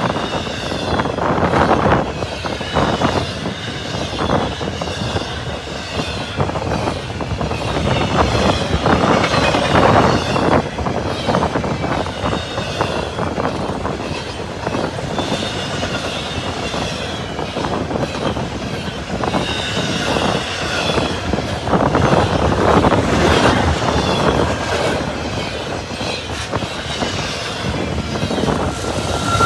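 CSX I020 intermodal freight train rolling past at close range, a steady rumble with the wheels clicking over rail joints and wavering wheel squeal at times.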